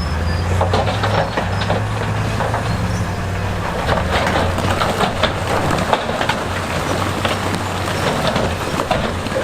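A heavy diesel engine running low and steady while loose stone clatters and knocks in quick, irregular strikes as it is moved.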